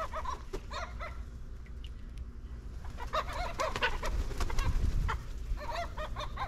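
Birds calling in short, arching notes that come in clusters near the start, in the middle and near the end, over a low steady rumble.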